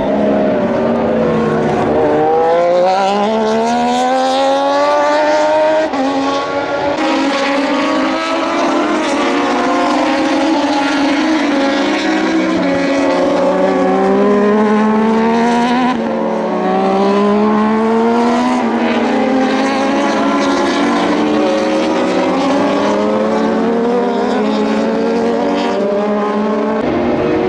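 Several Moto2 racing motorcycles with Triumph 765 cc three-cylinder engines going past, their engine notes overlapping. The pitch drops as they brake and shift down, then climbs again as they accelerate away, with fresh bikes coming through one after another.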